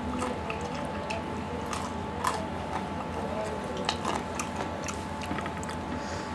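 Close-miked chewing of chicken curry and rice, open-mouthed, with many short wet mouth clicks and smacks scattered through.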